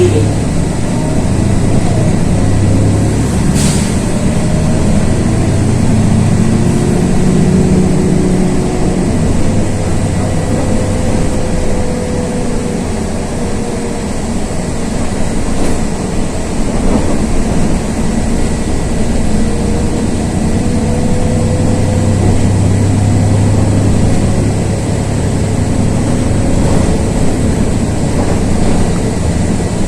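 Cabin noise of a LiAZ 6213.22 articulated city bus under way: a low engine drone that swells and eases with road noise, and a faint transmission whine that slowly rises and falls in pitch. A single sharp knock about four seconds in.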